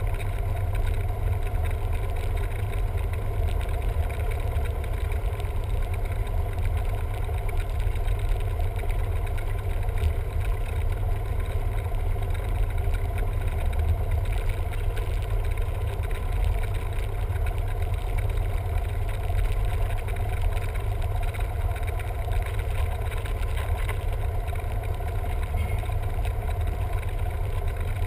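Steady drone of a Cessna 172M's four-cylinder Lycoming O-320 piston engine and propeller, running at an even speed with a heavy low rumble.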